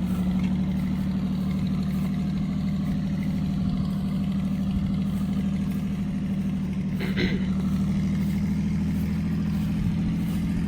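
An engine running steadily at idle, a constant low hum, with a brief sharper sound about seven seconds in.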